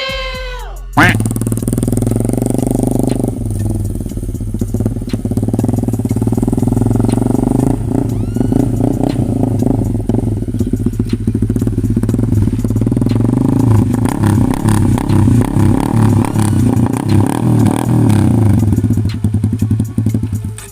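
Honda Sonic 150R single-cylinder motorcycle engine running through a replica SC Project exhaust while riding. The throttle opens and closes, so the engine note rises and falls.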